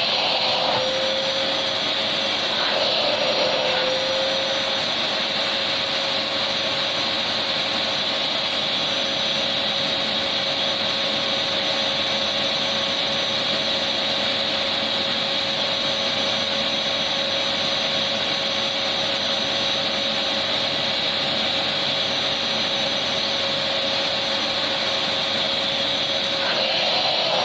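Electric vacuum cleaner running continuously: a steady, even rushing hiss with a constant motor hum.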